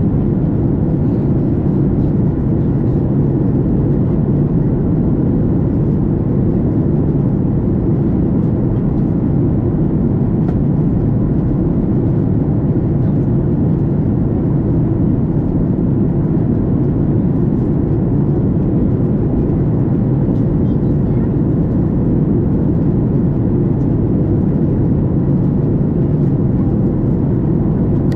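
Steady cabin noise inside a Boeing 737 MAX 8 in flight: an even, deep rush of airflow and engine noise with no change in level.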